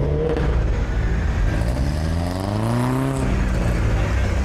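Ferrari California's V8 engine accelerating at low speed: its pitch rises for about a second and a half, then drops sharply about three seconds in as the throttle is lifted or a gear is changed, over other engines idling.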